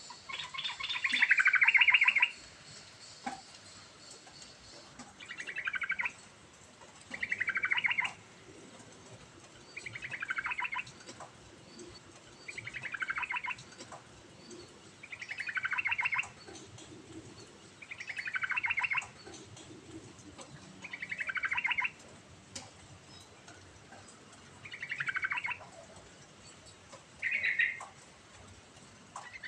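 Yellow-vented bulbul (trucukan) singing: a short, rapid, bubbling phrase that falls in pitch, repeated about every two to three seconds.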